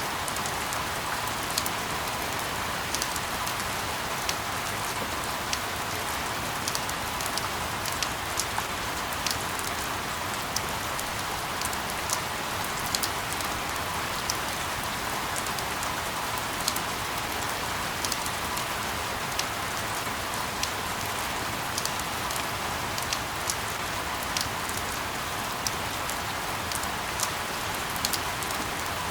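Steady rain hiss with many individual drops ticking sharply through it, played as a sleep-noise track.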